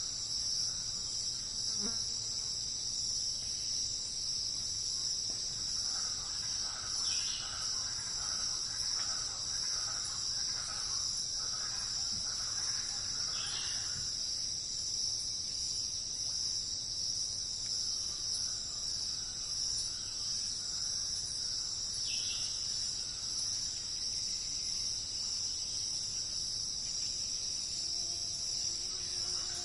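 Steady high-pitched chorus of insects, with a few faint short bird calls and distant birdsong in the background.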